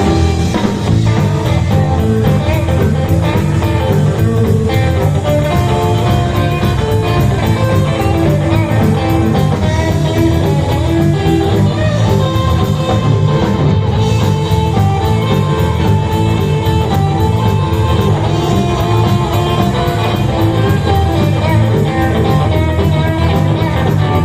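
Rock and roll band playing an instrumental break: a guitar lead over bass and drums with a steady beat.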